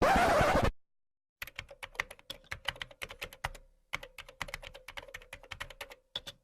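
A short, loud burst of noise, then rapid computer-keyboard typing: quick key clicks several a second, with a brief pause partway through and a faint steady hum underneath.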